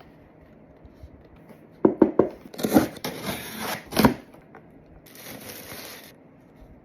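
Packaging being opened by hand: a few sharp clicks about two seconds in, then a loud stretch of tearing and crinkling with sharp snaps, and a shorter, fainter rustle about five seconds in.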